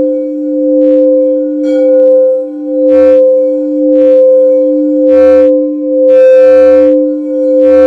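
Crystal quartz singing bowls ringing, two steady tones at once that swell and fade in a slow pulse. Several short bursts of brighter, higher ringing sound over them.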